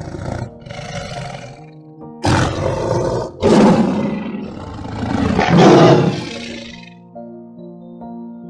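A large animal roaring several times in a row over soft background music; the loudest roar comes a little past the middle.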